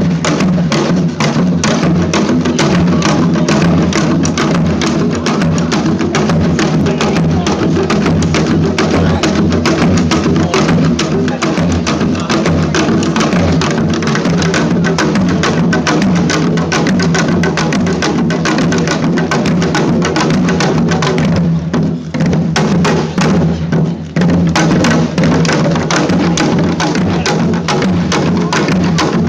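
A percussion ensemble plays loud, fast, dense drumming with many rapid strikes. It briefly thins out twice, about three-quarters of the way through.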